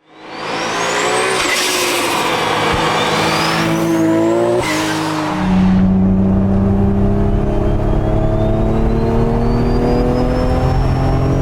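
Car engine under load with a high forced-induction whine that tracks the revs. It rises and falls twice in the first few seconds, then from about five and a half seconds in climbs slowly and steadily with the engine note.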